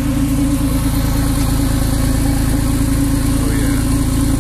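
Porsche 911 Carrera 4S's 3.8-litre flat-six idling steadily through its sport exhaust, heard from outside the car.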